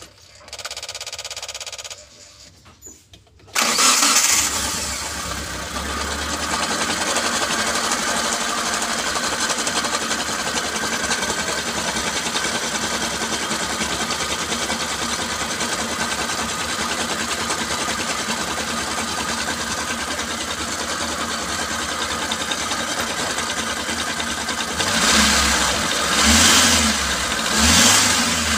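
Mitsubishi T120SS fuel-injected four-cylinder engine cranked by the starter, catching about three and a half seconds in and then idling steadily, with three short revs near the end. With the timing belt cover off it runs without the tok-tok knock, which shows the knock was the slack timing belt striking its cover.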